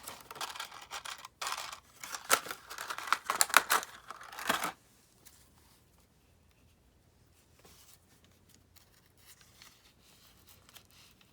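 Paper and card rustling and crinkling with sharp clicks and scrapes as a paper clip is slid onto a journal page; the handling stops about four and a half seconds in, leaving only faint ticks.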